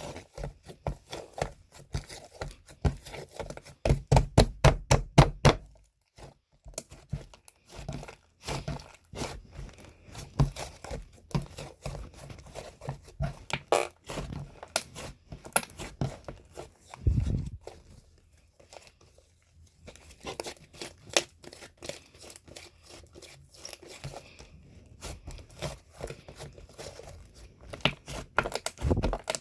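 Close handling noises: irregular taps, scrapes and crinkling, with a quick run of knocks about four seconds in and a dull thud later.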